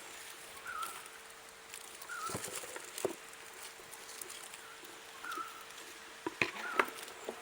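A few light knocks and taps of a plastic pipe and block being handled, the loudest pair near the end. Throughout, a short chirp repeats about every second and a half over a faint steady hum.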